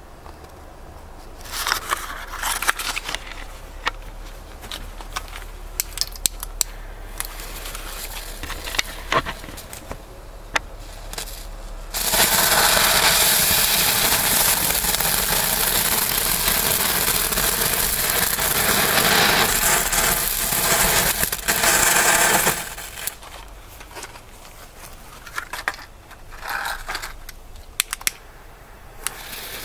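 Feistel 'Feuer Kröten' firework going off: scattered crackles and pops, then about twelve seconds in a dense, loud hissing and crackling spray that lasts about ten seconds and stops abruptly, followed by a few more crackles near the end.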